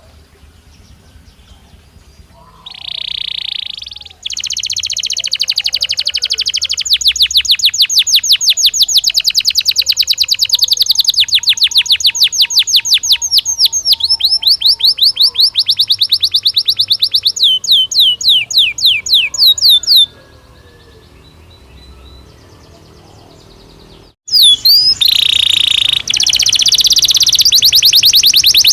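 Belgian canary singing. A short buzzy phrase comes a few seconds in, then long runs of rapid repeated trill notes. The song stops for a few seconds past the middle and starts again near the end.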